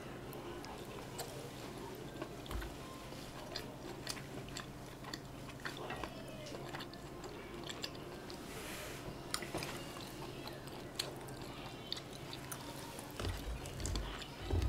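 Close-miked chewing and biting of a soft chive-and-tofu dumpling, with many small wet mouth clicks. A few soft low thumps come near the end.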